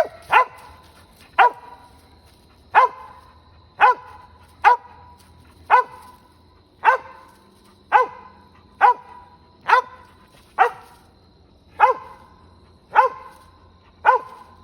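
Squirrel dog barking treed: single loud barks at a steady pace of about one a second, the dog sounding off at game up a tree.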